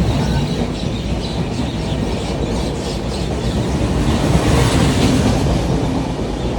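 Train running past close by: a loud, steady rumble of wheels on rails, with faint clattering clicks.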